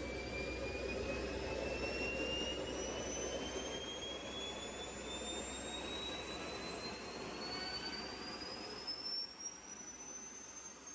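JetCat P100-RX small turbojet engine spooling up: a high whine climbing steadily in pitch over a steady rush of jet noise.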